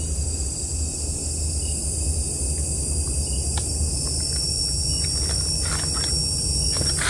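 Steady high-pitched chorus of night insects in the forest, with a low rumble underneath and a few faint clicks scattered through it.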